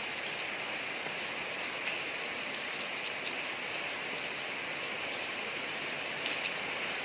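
Steady rain falling on a street, an even hiss with scattered faint drop ticks.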